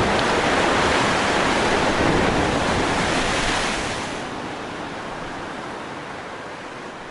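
Sea surf: waves washing in a steady rush that fades away over the last few seconds.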